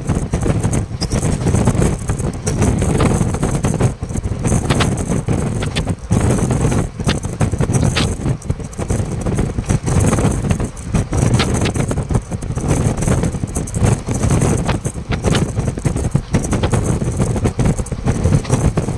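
Mysore Express passenger train running at speed, a steady loud rumble and rattle with occasional sharp clicks, heard from an open window of the moving coach.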